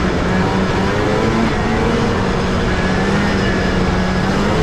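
Snowmobile engine running steadily under way, its hum wavering slightly in pitch over a dense rush of noise.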